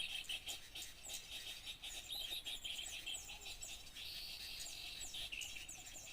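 A busy chorus of small songbirds chirping and twittering in quick, overlapping notes, played as a bird-lure call recording. A high, steady buzzing trill joins in for about a second past the middle.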